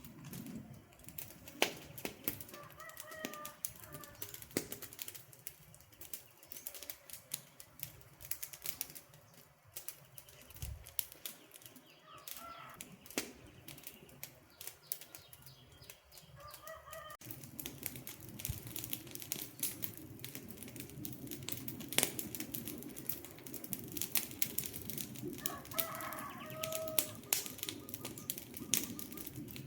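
Wood campfire crackling, with a constant patter of sharp pops and snaps. A little past halfway a low rush of the flames grows louder under the crackle, and a few faint short chirps come through now and then.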